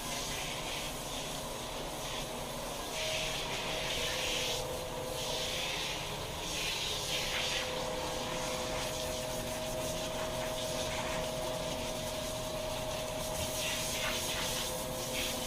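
Handheld shower head spraying water onto a dog's coat, a steady hiss that swells and eases as the spray moves, with a thin steady whine running under it from about three seconds in.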